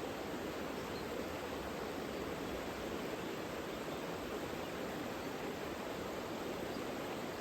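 Steady rush of a mountain river flowing over rocks, an even wash of water noise.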